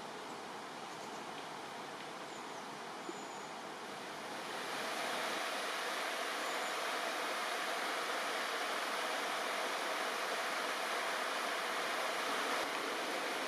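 River water rushing, a steady noise that grows louder about five seconds in.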